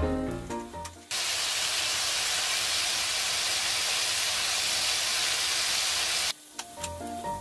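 Battered boneless chicken pieces deep-frying in hot oil in a frying pan: a steady, loud sizzle that starts about a second in and stops about six seconds in. Background music plays before and after it.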